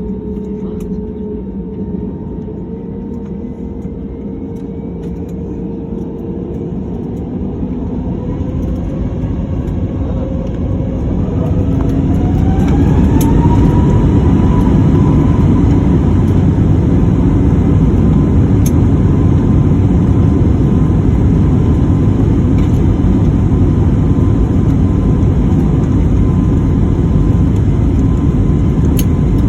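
Jet airliner engines spooling up to takeoff thrust: a whine rising in pitch from about six seconds in to about thirteen as the noise grows louder, then a steady loud rumble with a held whine at full power.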